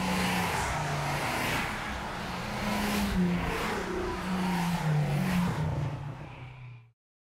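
Car engine running with road noise, its pitch rising and falling several times; the sound fades out near the end.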